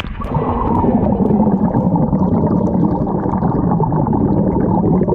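Muffled underwater rumble and gurgling of pool water, heard with the microphone submerged. The sound is loud and dull, with everything above a low band cut off.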